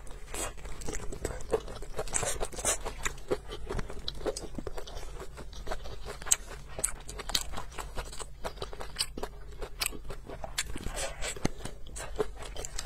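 Close-miked biting and chewing of a spring pancake rolled around shredded potato stir-fry, heard as many small, irregular mouth and food clicks.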